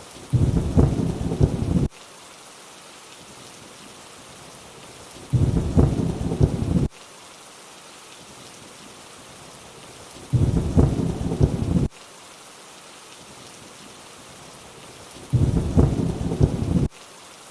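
Steady rainfall with a short rumble of thunder that repeats four times at even intervals of about five seconds. Each rumble starts and cuts off abruptly, the mark of a looped thunder recording laid over the rain.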